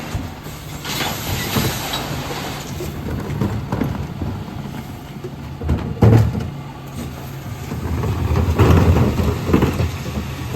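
Dennis Elite 6 refuse truck's diesel engine running steadily, with a sharp knock about six seconds in and louder clattering near the end.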